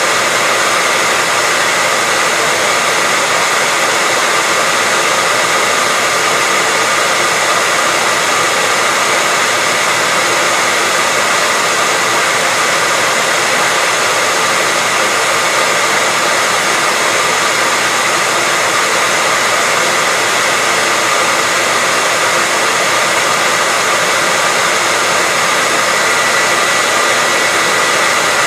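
Hair dryer running steadily: an even, unbroken rush of air with a faint steady whine from the motor and fan.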